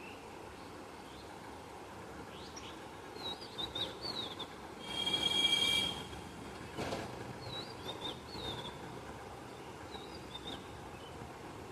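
A small bird calling in short, quick chirping phrases, repeated several times over a steady background hum of environmental noise. About five seconds in, a louder held sound with several pitches lasts about a second.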